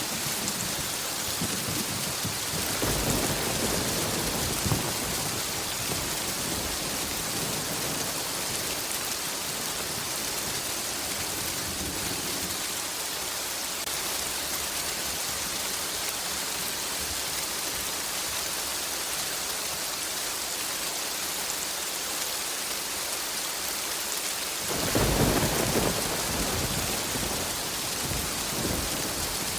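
Steady rain with rolling thunder. One rumble rolls in a couple of seconds in and fades away, and a second, louder rumble breaks near the end.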